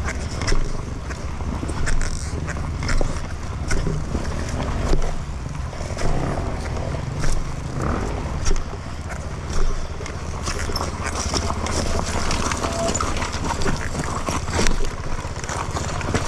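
Two-stroke dirt bike engine running at low revs, with irregular knocks and clatter over it.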